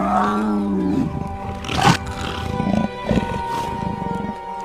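Wild animal calls over soundtrack music: a drawn-out, arching growl-like call in the first second, then short sharp cries about two seconds in and again near the end.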